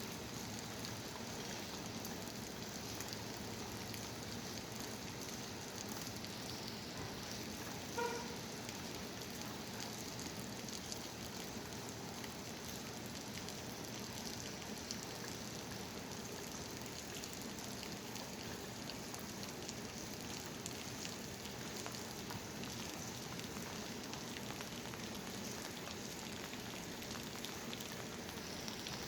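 Steady monsoon rain pouring down, an even hiss of rain on surfaces. About eight seconds in comes a brief, short pitched sound.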